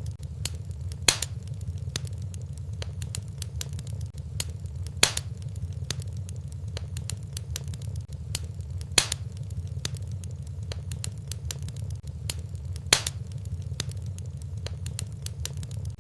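Wood fire burning in a fireplace: a steady low rumble under constant small crackles, with a louder sharp pop about every four seconds.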